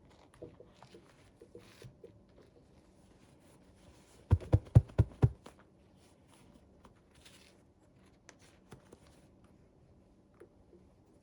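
Quiet handling and rustling of toys and their packaging during an unboxing. A quick run of about five loud knocks comes a little over four seconds in.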